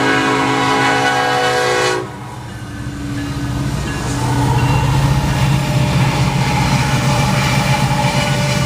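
Freight locomotive's air horn sounding a chord, cutting off sharply about two seconds in, followed by the rumble of the EMD SD70ACe-led diesel freight train, which grows louder as it comes by.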